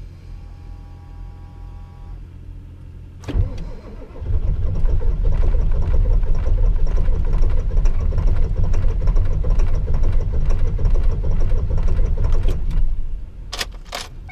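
Ford 7.3-litre V8 diesel cranking hard on its starter in the cold for about nine seconds, with some cylinders firing unevenly. It doesn't catch, and the cranking stops about 13 seconds in. This is a very cold, rough start on a barely warmed block.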